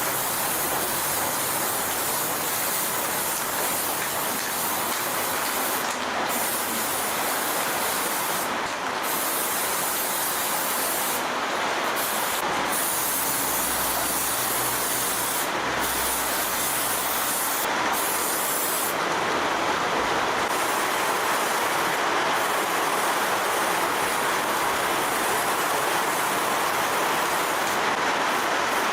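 A steady hiss that runs on without a break, with brief dips in its highest part every few seconds.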